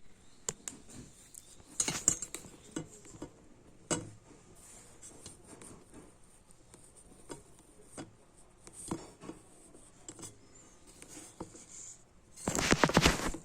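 Wood fire crackling: scattered, irregular sharp pops and snaps, with a dense flurry of louder crackles near the end.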